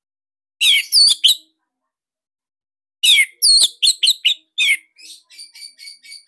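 Orange-headed thrush (anis merah) singing: two loud phrases of quick, sweeping whistled notes, the second about three seconds in. They are followed near the end by a softer run of short repeated notes, about four a second.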